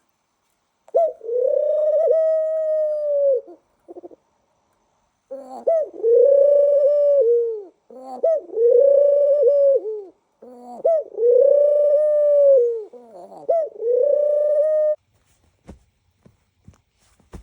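Pet dove cooing: a series of about five coos, each a short bent note followed by a long held one, with brief pauses between. A few faint knocks near the end.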